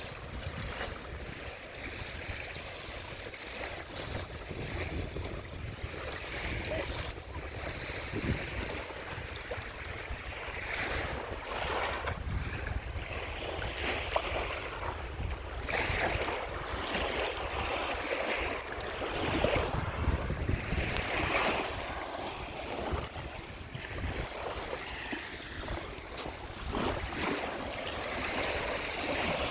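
Ocean surf washing onto the beach in slow swells that rise and fall every few seconds, with wind buffeting the microphone in a low rumble.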